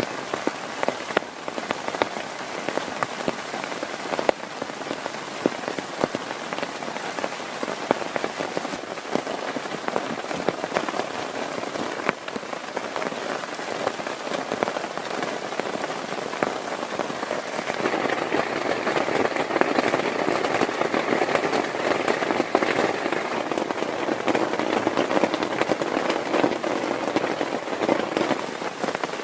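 Heavy rain falling, with many close individual drop hits; it grows heavier about eighteen seconds in.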